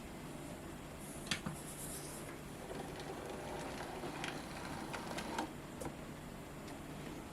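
N gauge model trains running round a layout: a steady electric motor hum and wheel rumble, with a handful of sharp clicks and a louder stretch in the middle as a train passes closer.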